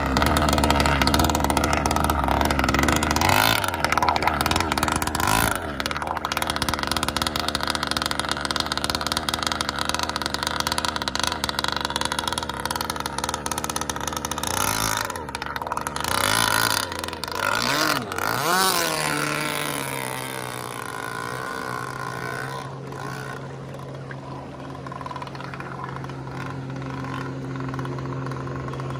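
A boat engine running at a steady idle, revving up and down a few times past the middle, then settling back to a steady, lower idle.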